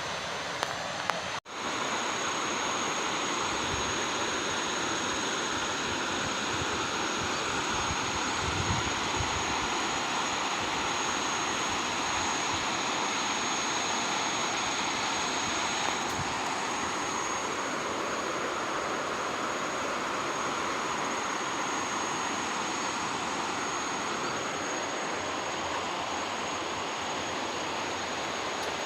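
Steady rushing of flowing water with a constant high-pitched insect drone over it; the sound cuts out for an instant about a second and a half in.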